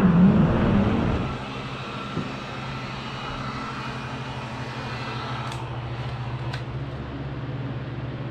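Jet ski engine revving with a pitch that wavers up and down. About a second in it drops to a steady, quieter low hum. Two short clicks come later.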